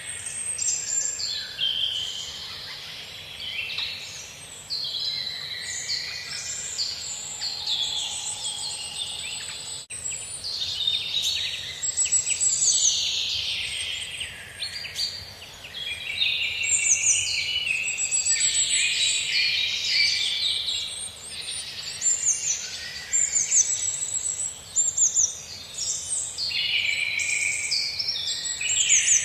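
A chorus of many songbirds singing at once, a dense overlap of quick chirps and trills.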